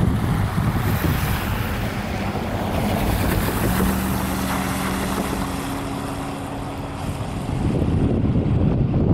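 EMD F40FH diesel-electric locomotive running, with a steady low hum in the middle few seconds and wind buffeting the microphone.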